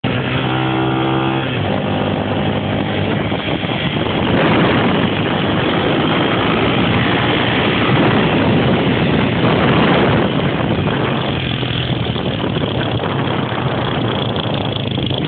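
Motorcycle engine running steadily at first, then revving harder and louder for several seconds before easing back.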